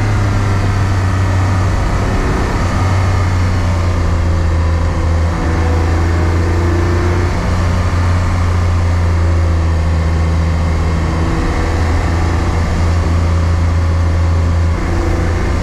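Car driving at a steady speed: a loud, steady low engine drone with road and wind noise, holding a constant pitch with no revving.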